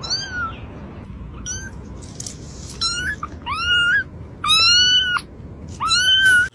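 A cat meowing repeatedly, about six calls, each rising then levelling in pitch; the later ones are longer and louder.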